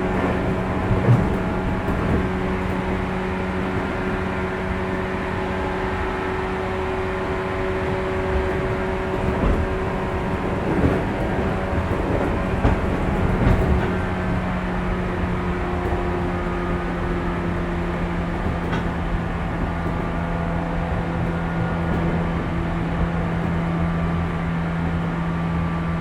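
Inside a 415 series electric multiple unit's motor car under the pantograph: the traction motors and gearing hum at steady speed, with the running noise of the wheels on the rails and a few knocks over rail joints.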